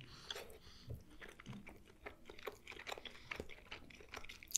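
A person chewing food with the mouth closed: faint soft crunches and mouth clicks, with a sharper click near the end.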